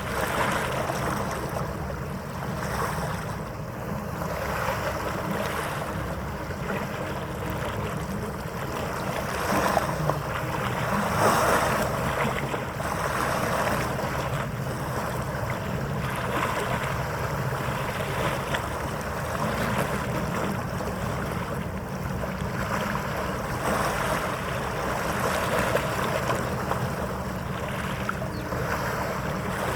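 Wind on the microphone over steady harbour water noise, with a low, steady hum underneath; the wind swells louder briefly about ten seconds in.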